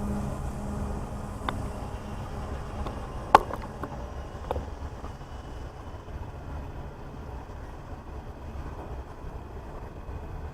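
Freight train wagons rolling slowly past: a steady low rumble with a few sharp clanks, the loudest about three seconds in.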